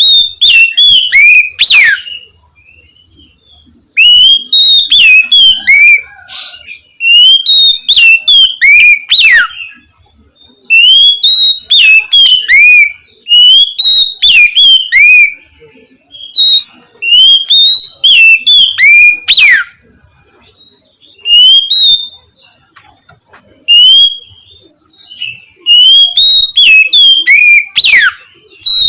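Oriental magpie-robin (kacer) singing in the loud, open 'ngeplong' style: phrases of clear whistled notes that slur up and down, each lasting one to three seconds, with short pauses between them.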